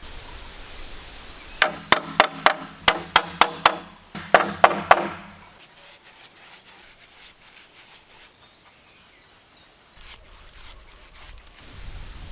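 Hammer blows on wood: a quick run of about eleven strikes, roughly three a second with a short break after the eighth, each with a brief ring. Quieter knocking and handling of wood follow.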